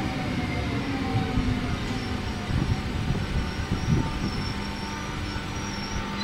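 Trenord passenger train running past at the platform edge: a steady rumble of wheels on rail with irregular low thumps, a faint high whine above it, and a steady low hum that comes in about four seconds in.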